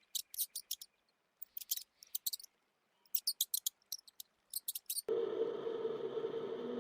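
Small animal making groups of short, very high-pitched chirps, several a second, with silent gaps between the groups. About five seconds in, a steady held tone begins, the start of music.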